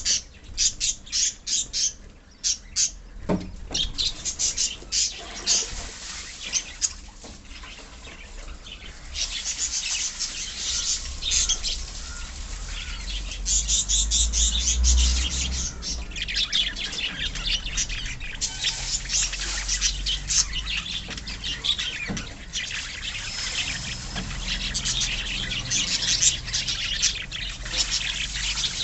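A colony of caged budgerigars and lovebirds chirping and chattering, many short, high calls overlapping. The calls grow denser and busier about a third of the way in.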